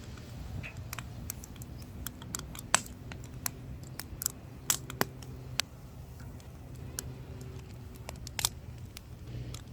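Burning firewood crackling, with irregular sharp pops and snaps. The loudest snaps come about three seconds in, again around five seconds, and near the end, over a low steady hum.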